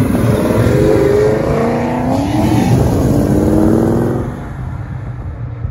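Fox-body Mustang engine revving hard as the car accelerates away. The pitch climbs, drops with a gear change about two seconds in, climbs again, then fades after about four seconds.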